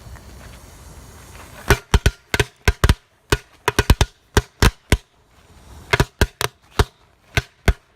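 Firecrackers going off: after a stretch of wind noise, about twenty sharp bangs in a rapid, irregular series start about two seconds in and stop just before the end.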